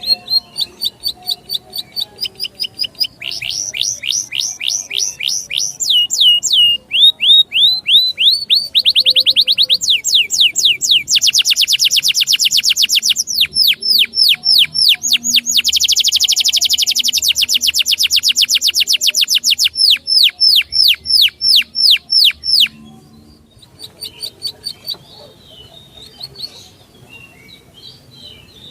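A songbird singing long, fast trills, each phrase one note repeated many times before switching to a new note at a new speed and pitch. About three quarters of the way through, the loud trilling stops and only quieter scattered chirps go on.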